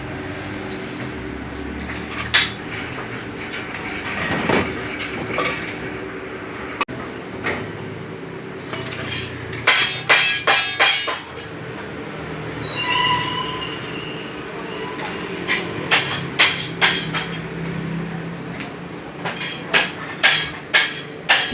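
Welding work on a stainless-steel motorcycle exhaust header: a steady machine hum, with clusters of sharp metallic taps about ten seconds in and again near the end.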